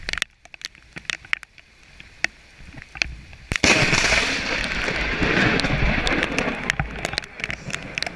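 Close lightning strike: a sudden sharp thunderclap about three and a half seconds in, followed by about four seconds of loud crackling thunder that slowly fades. Before it, scattered ticks of rain.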